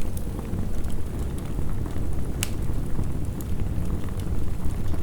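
Fireplace fire crackling: scattered sharp pops, one louder pop about two and a half seconds in, over a steady low rumble.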